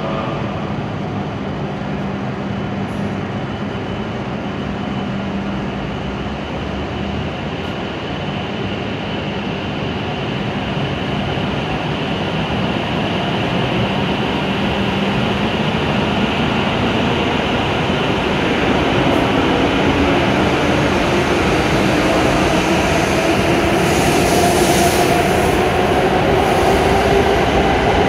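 W7 series shinkansen electric train pulling out of the platform: a steady hum at first, then from about halfway its motor whine rises in pitch as it gathers speed, with running noise growing louder.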